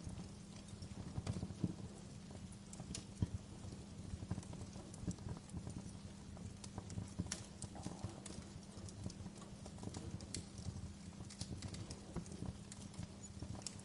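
Fire crackling, with irregular sharp pops and snaps over a low steady rumble of flames.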